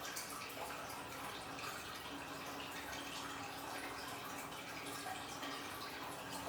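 Steady trickling and splashing water with many small drips, from a small aquarium waterfall, over a faint constant hum.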